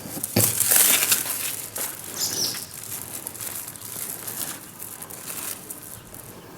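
Rustling and crinkling from hands handling material, with scattered light clicks; loudest in the first two seconds, then fainter.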